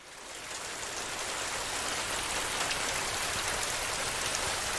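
Steady rain drumming on a metal roof, with scattered individual drops. It fades in over about the first second, then holds even.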